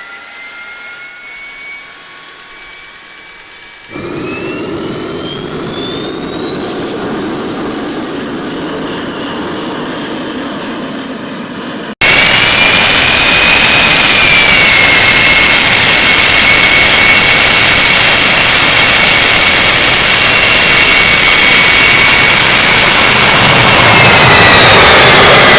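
Aero L-39 Albatros jet's Ivchenko AI-25TL turbofan starting up: a whine rising steadily in pitch as it spools up. About twelve seconds in it suddenly gets much louder, then holds a steady high whine that drops a little in pitch soon after and again near the end.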